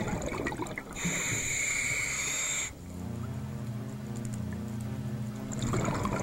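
Scuba diver breathing through a regulator underwater: a rush of exhaled bubbles, then a hissing inhale lasting under two seconds, and another rush of exhaled bubbles near the end. A low steady drone runs underneath from about halfway.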